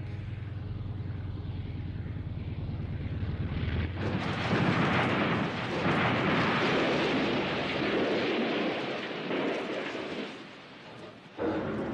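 Seaplane's propeller engine drones steadily on the approach. About four seconds in, a loud rushing crash of water spray and impact begins as the plane hits the water too fast. The crash noise lasts several seconds and then dies down.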